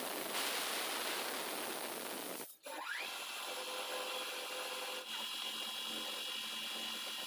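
A power tool running with a steady, dense noise, cutting out briefly about two and a half seconds in, then spinning back up with a rising whine that settles into a steady high whine.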